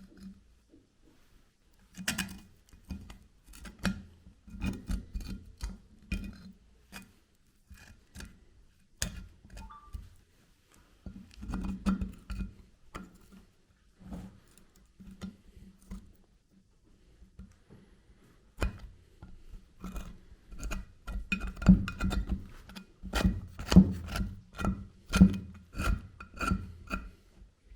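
Irregular metal clicks, knocks and scraping in clusters, busier and louder in the second half, from hand work on the old grinder's metal parts.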